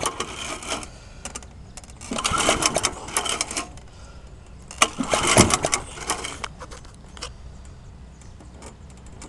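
Old lawnmower's small engine being pull-started from cold: three pulls of the recoil starter cord about two seconds apart, each a short burst of cranking that dies away without the engine catching. Faint clicks in the quieter last few seconds.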